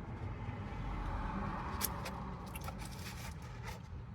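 Steady low rumble of a car cabin, with a few faint clicks and crackles from someone chewing and handling a flaky piece of gooey butter cake.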